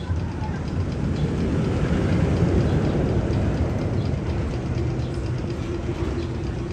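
Magnum XL 200 roller coaster train running along its steel track: a steady low rumble that swells a little about two seconds in.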